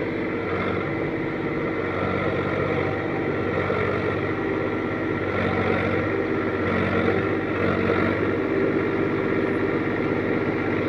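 Farm tractor's diesel engine running steadily under throttle, working to drive the tractor out of soft soil where it is stuck.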